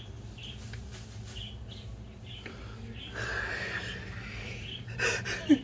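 Small birds chirping over and over, with a harsher, longer call about three seconds in and a short loud sound that falls in pitch near the end.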